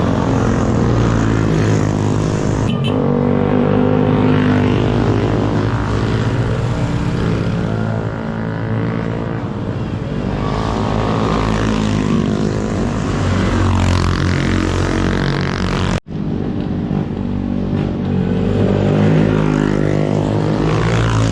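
Motorcycle engine running on the move, its pitch rising and falling with the throttle, over steady wind noise. The sound cuts out sharply for an instant about three-quarters of the way through.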